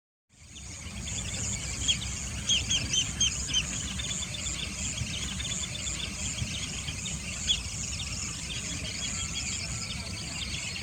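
Outdoor wetland ambience: a steady high insect chorus with small birds chirping, a quick run of several short chirps about two to three seconds in and one more near the middle, over a low background rumble.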